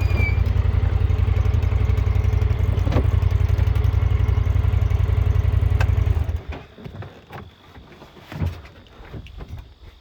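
Side-by-side UTV engine running with a steady pulsing rumble, then switched off about six seconds in. A few faint knocks and clicks follow.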